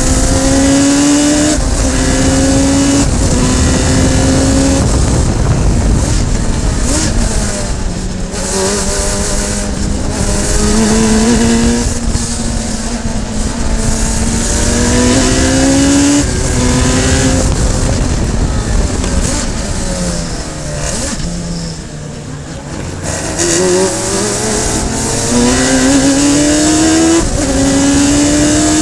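Radical SR3 sports-racer's four-cylinder motorcycle-derived engine at full throttle, revving up through the gears with quick upshifts that drop the pitch each time. About two-thirds through the revs fall in steps as it downshifts, then it accelerates hard and climbs through the gears again.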